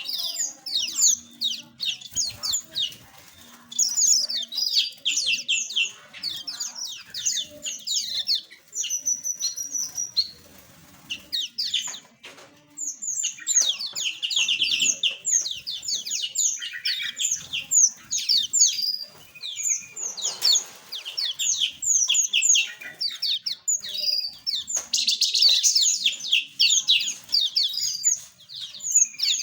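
Small aviary birds twittering in dense runs of rapid, high-pitched chirps, with a brief lull about twelve seconds in and a short rushing, fluttering noise about twenty seconds in.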